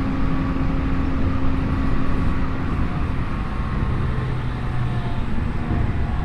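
Interior running noise of a Tokyu 5050 series electric train under way: a steady rumble of wheels on rail with faint Hitachi IGBT inverter and traction-motor tones. About halfway through, one steady tone fades and a lower one takes over.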